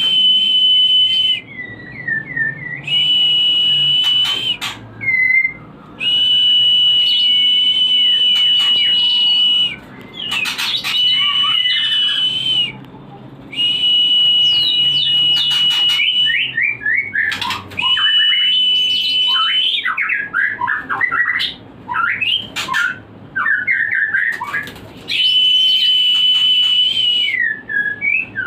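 White-rumped shama song played as a breeding lure: long, steady high whistles held for a few seconds each, alternating with quick runs of falling chirps and short pauses between phrases.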